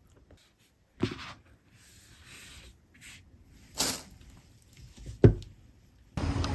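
Scattered knocks and rustles of tableware being handled at a meal, with a short crackly burst near the middle and a sharp thump a little past five seconds.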